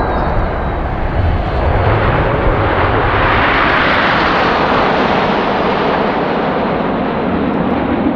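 Jet noise of a formation of BAE Hawk jet trainers making a low pass. The noise swells to a peak about halfway through and then eases off as the formation moves away.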